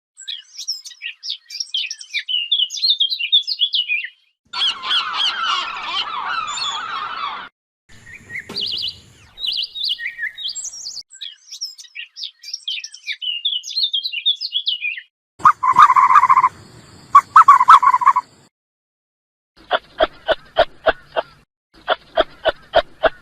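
A run of separate animal sound clips, mostly birds chirping and twittering, with a denser stretch of many voices at once. Near the end come two loud calls of about a second each, then two runs of short rapid pulses, about five a second.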